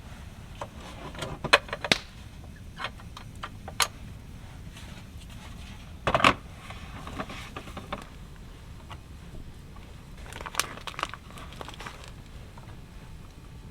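Scattered clicks, clinks and light knocks of cooking gear being handled, with a louder clatter about six seconds in and another near ten seconds.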